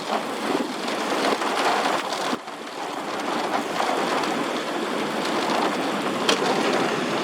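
Heavy rain pouring in a steady hiss, heard through an open car window during a severe thunderstorm, with a brief lull about two and a half seconds in.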